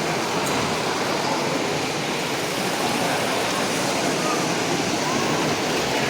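Steady hubbub of a crowded hall: many overlapping voices blending into a continuous murmur.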